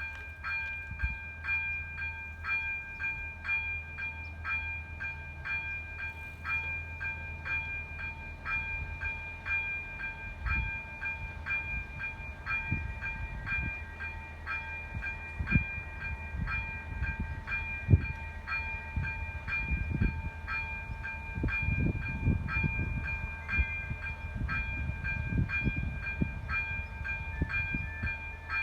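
Level crossing warning bell ringing steadily, about two strikes a second. Through the middle and latter part, a RegioShark diesel multiple unit passes over the crossing, its wheels rumbling and thudding over the rail joints.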